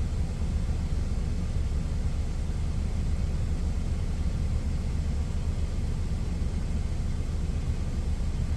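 Steady low rumble of an idling diesel truck engine, even and unbroken.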